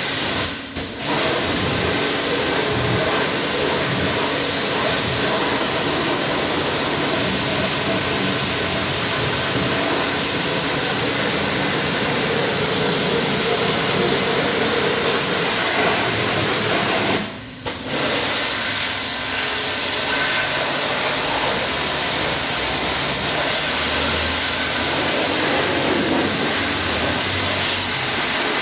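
High-pressure washer spraying water onto a car in a touchless wash: a steady, loud hiss of spray over the washer's running pump. The spray cuts out briefly twice, a little under a second in and again about two-thirds of the way through.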